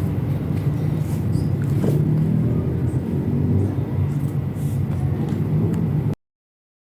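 A steady low rumble, like traffic or a running engine, with a few faint clicks over it; it cuts off abruptly about six seconds in.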